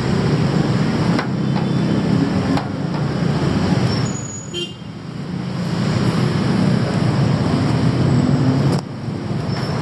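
Heavy motor traffic running close by, a loud steady rumble that dips briefly about halfway through and drops suddenly near the end.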